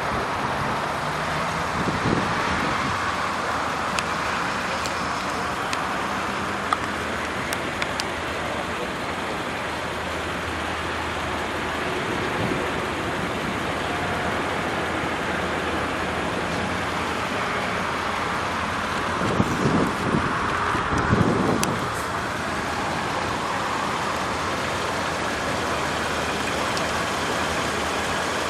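2011 Kia Carens engine idling steadily, with outdoor noise around it and a few brief low rumbles about two-thirds of the way through.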